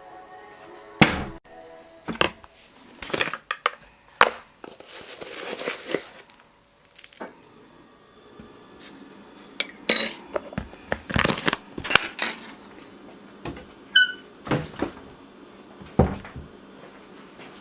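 Dishes and cutlery clinking and clattering: a string of irregular sharp knocks and clinks, with a brief ringing tone about two-thirds of the way through.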